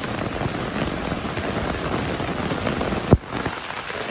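Heavy rain pattering steadily, with one sharp click about three seconds in.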